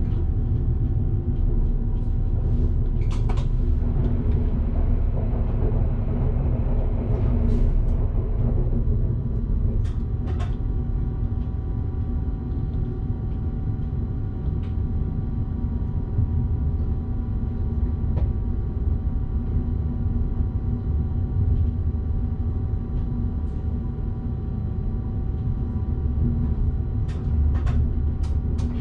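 Electric train running along the line, heard from the driver's cab: a steady low rumble with a faint constant whine, a swell of hiss a few seconds in, and scattered sharp clicks from the wheels on the track.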